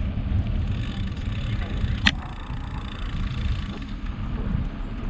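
Wind rumbling on the microphone and road noise while riding a bicycle, with one sharp click about two seconds in.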